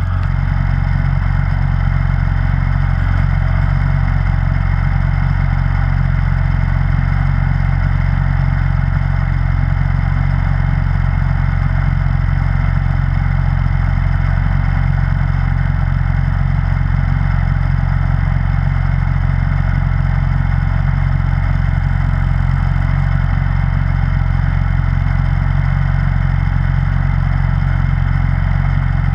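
Snowblower engine running at a steady, unchanging speed.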